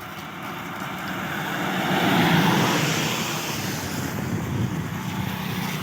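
A motor vehicle passing by, its noise swelling to a peak about two seconds in and then fading, over a steady low hum.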